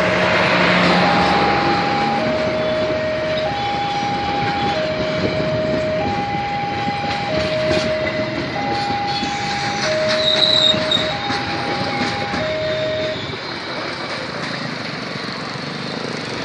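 Passenger train coaches rolling past over the rails with a steady, loud rumble of wheels. Over it a level-crossing alarm sounds an alternating two-tone chime, high then low, each tone a little over a second long, until it stops about thirteen seconds in. A brief high squeal comes from the wheels about ten seconds in.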